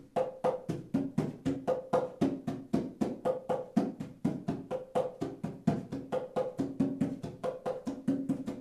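A hand drum struck in a fast, steady beat, about four to five strokes a second, each stroke carrying a short ringing tone, with uneven accents.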